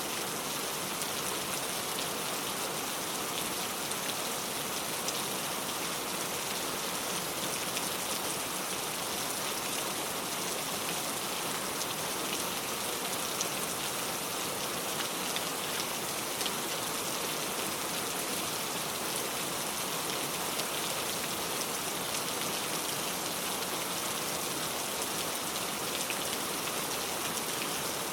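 Steady rain drumming on a car, dense patter of drops with fine ticks throughout and no change in intensity.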